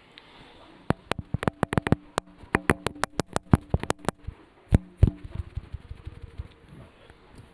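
A rapid, irregular run of sharp clicks and knocks, starting about a second in and stopping about five seconds in.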